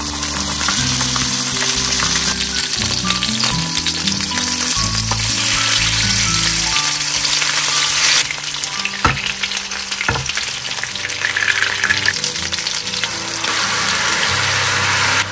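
Chicken thighs frying in oil in a frying pan: a loud, steady sizzle.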